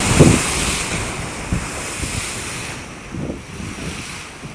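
Wind buffeting the microphone over the rush of sea waves on a ship at sea, loudest at the start and easing off, with a few low thumps from gusts.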